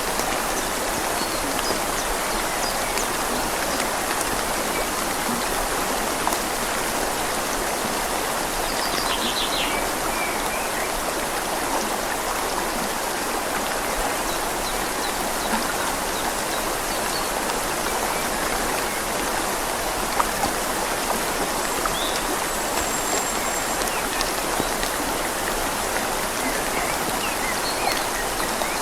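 Steady rain falling on leaves over a flowing river: a continuous, even hiss of rain and running water with scattered drip ticks.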